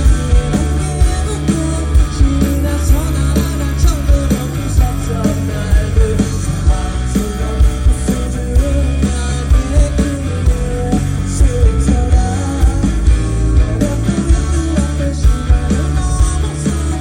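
Live band playing a pop-rock song, with a male lead vocal over drum kit, bass and guitar.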